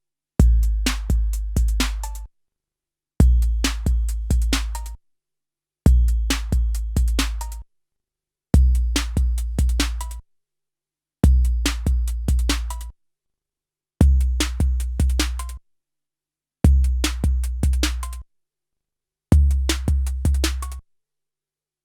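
SP-1200 12-bit sampler playing back a short drum phrase of four bass-heavy kick hits, the first loudest and the last with a brief higher tone, repeated eight times with short silent gaps between.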